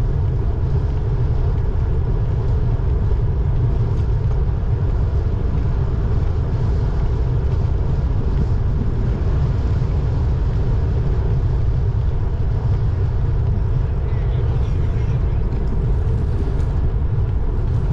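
Wind rushing over the microphone of a camera riding along on a moving road bike: a steady, loud low rumble with no breaks.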